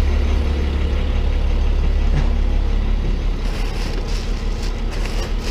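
Tow truck's engine idling steadily, with a few light knocks in the second half.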